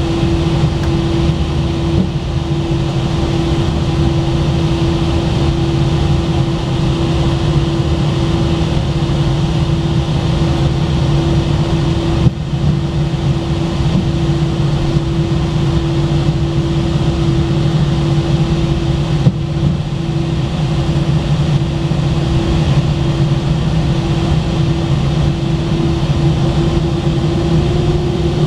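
Inside the cabin of an Airbus A319 on the ground: the jet engines and airframe make a steady hum with one constant tone over a low rumble, with a couple of brief knocks, typical of the aircraft taxiing.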